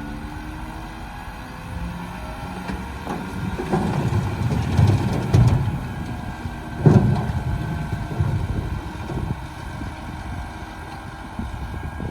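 Heavy diesel engines of construction machinery running, getting louder in surges about four seconds in and again about seven seconds in.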